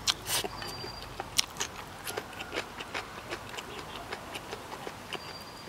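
Close-up chewing of braised hairtail with rice: irregular small clicks and crunches as the fish's bones are chewed up rather than picked out.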